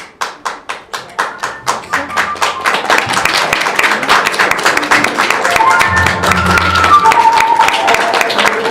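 Audience applause: a few separate claps at about three a second that quickly build into dense clapping, with music coming in about halfway through.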